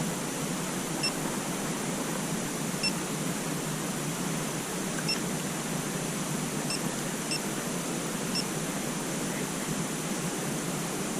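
Steady hiss with a few faint, short high-pitched chirps.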